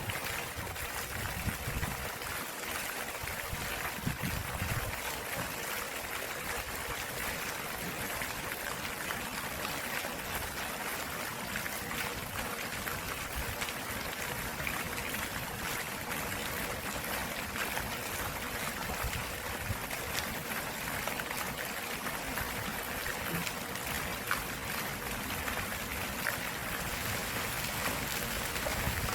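Stream water flowing and trickling in a steady, unbroken rush.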